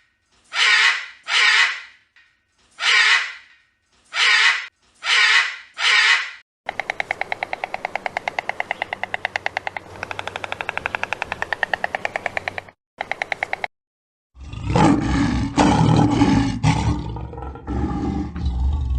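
A run of different animal calls: six short, harsh calls, then a fast pulsing call of about ten pulses a second lasting some six seconds, then, after a brief silence, a deep, loud call.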